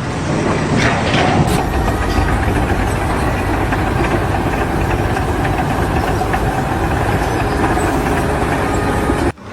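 Loud, steady engine noise, as of running machinery, that cuts off abruptly near the end.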